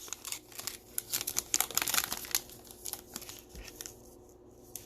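Topps Chrome baseball card pack wrapper crinkling as it is opened and handled, with a run of quick crackles that thin out over the last second or two.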